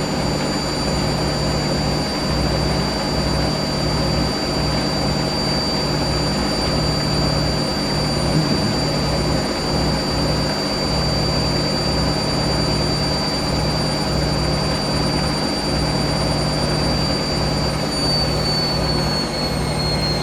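Hoover SIX Inter@ct washing machine's drain pump running with a steady low rumble, under a steady high whine from the machine that begins to drop in pitch near the end.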